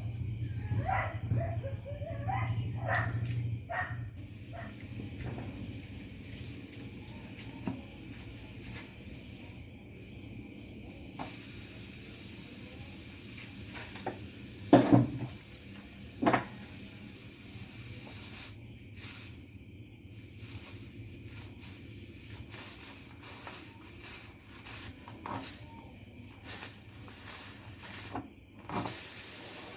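Air hissing: a steady hiss starts about a third of the way in, then comes in short bursts of varying length, then steadies again near the end. A few knocks sound about halfway through, and a steady high insect-like chirring runs underneath.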